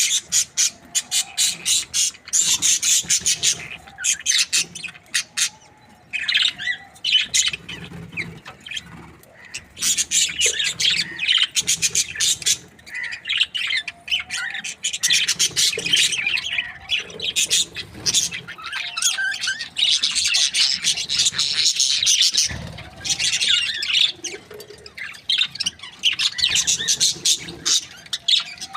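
Budgerigars chirping and chattering: rapid high-pitched chirps, warbles and clicks, nearly continuous with a few brief lulls.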